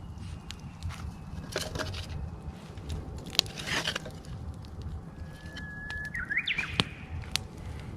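Wood campfire crackling and popping with sharp snaps. About five seconds in, a Japanese bush warbler sings: one long held whistle, then a quick rising-and-falling flourish, the typical hoo-hokekyo song.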